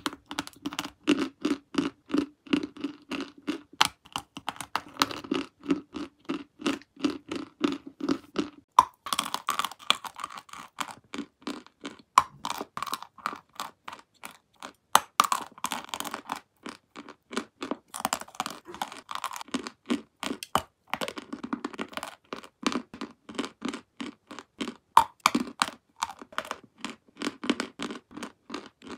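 Close-miked chewing and biting of a dry, crumbly white chalk-like block: a dense run of sharp, dry crunches and crackles, several a second, with a steady chewing pulse in the first few seconds.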